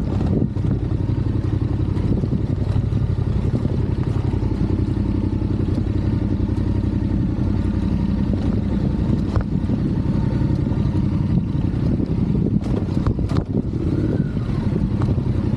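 Adventure motorcycle engine running steadily while riding off-road, with a few sharp knocks and clatters about three-quarters of the way through.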